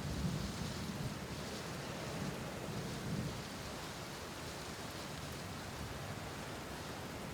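Steady rain falling as an even hiss, with a low rumble underneath that eases after the first three seconds or so.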